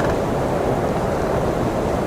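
Heavy blizzard wind blowing steadily, a low, even rushing noise with no gusts or breaks.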